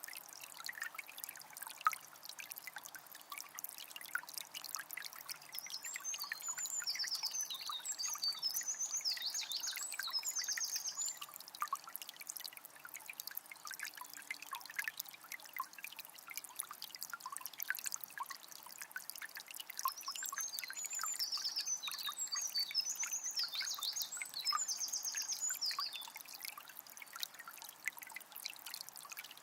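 Water from a small spring trickling steadily, with many small splashes and drips. A songbird sings a high, trilling song twice, about six seconds in and again about twenty seconds in.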